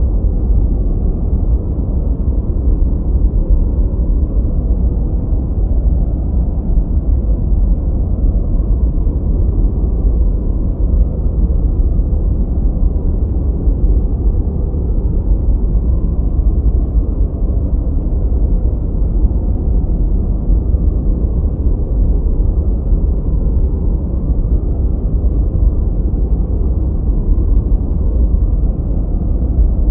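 Steady, deep, muffled rushing noise that never changes: a generated masking noise, mostly low rumble with no high hiss.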